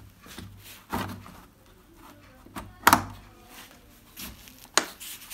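Sharp plastic clicks and knocks as a TV's plastic parts are pressed and snapped into their locks, three in all, the loudest a quick double about three seconds in.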